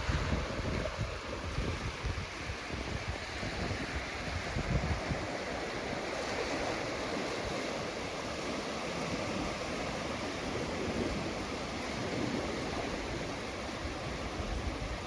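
Gentle ocean surf washing on a beach, a steady rushing hiss that swells and eases slightly, with light wind rumble on the microphone.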